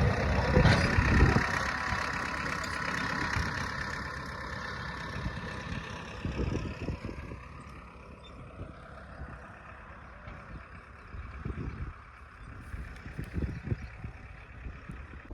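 Tractor engine running, loud at first and growing steadily fainter as it moves away, with a few low thumps in the second half.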